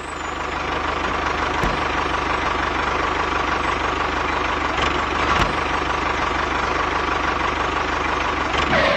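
A small motor running steadily with a fast, even pulsing, the music dropping out for it.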